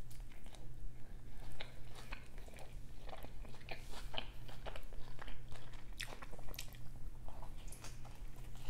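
A person biting into and chewing a slice of shrimp pizza, heard as many small crisp crunches and wet mouth clicks. A fresh bite comes near the start and another near the end.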